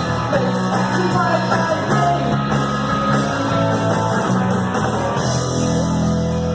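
Live rock band playing an instrumental passage, with electric guitar and steady bass.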